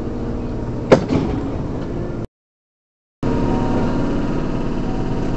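Steady low hum inside a stationary electric train, broken about a second in by one sharp, loud clack that rings briefly. The sound cuts out completely for about a second, then the hum returns a little louder with a few thin steady tones.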